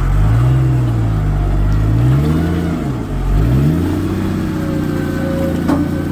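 Four-wheel-drive's engine revving up and down several times, then settling to a steadier note about four seconds in, as the vehicle struggles for grip on a climb. A front wheel is likely spinning, with no front locker engaged.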